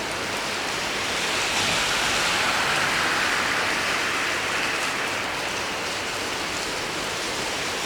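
Rain falling steadily, a continuous hiss that swells louder for a few seconds in the middle and then eases.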